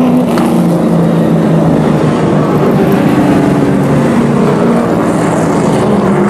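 A field of short-track race trucks running at speed, several engines heard at once with their pitches drifting up and down as they work around the oval.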